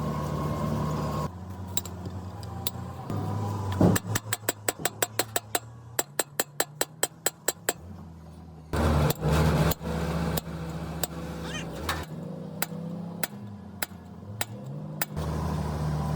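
An engine running steadily, with a quick run of sharp clicks, about four a second, partway through, and a few scattered knocks later on.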